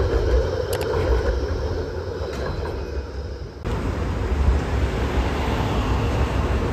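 Steady low rumble of a running vehicle with a noisy hiss over it, which changes abruptly to a brighter hiss about three and a half seconds in.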